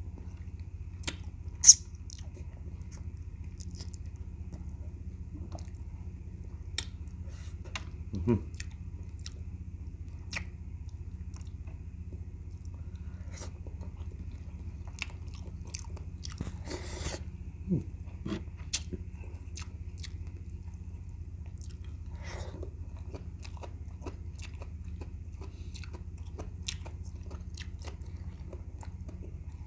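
Close-miked mouth sounds of a person chewing boiled goat feet and vegetables: irregular wet smacks and clicks, with a sharp louder click about two seconds in, over a steady low hum.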